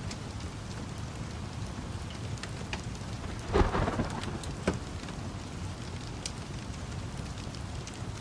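Steady rain with a sharp, loud clap of thunder about three and a half seconds in, followed by a shorter crack about a second later. Scattered small crackles are heard through the rain.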